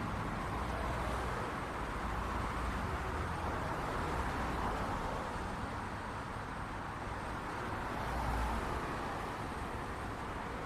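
Steady city street traffic: a continuous wash of car engines and tyre noise with a low rumble, swelling slightly as vehicles pass.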